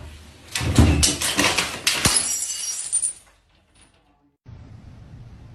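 A noisy crash and clatter like something breaking, lasting about three seconds with a sharp knock near the middle and some high ringing, then a brief silence and a steady faint hiss.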